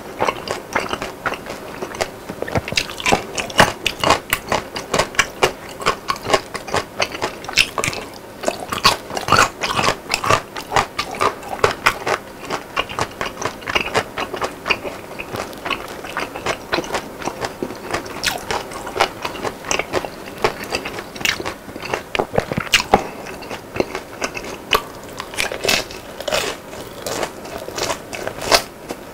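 Close-miked chewing of crispy battered fried food: a dense, irregular run of crunches with sharper bites now and then.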